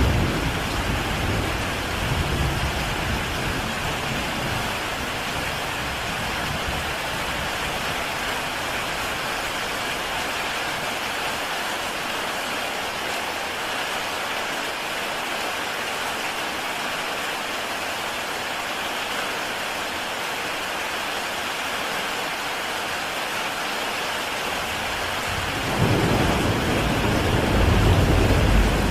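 Heavy rain falling steadily on a tile roof, an even hiss of drops. A deep low rumble sounds in the first couple of seconds and again near the end, slightly louder than the rain.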